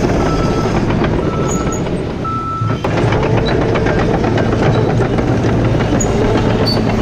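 Excavator diesel engine and hydraulics running under load, with repeated metallic clanks and knocks as the bucket smashes rock down into mud.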